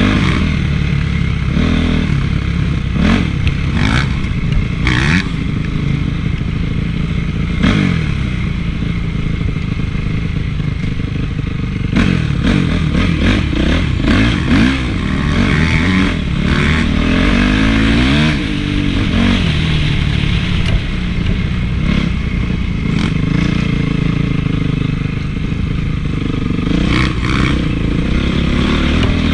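Honda CRF450 single-cylinder four-stroke motocross engine being ridden, revs rising and falling over and over as the throttle is worked. Scattered knocks and clatter are mixed in with the engine.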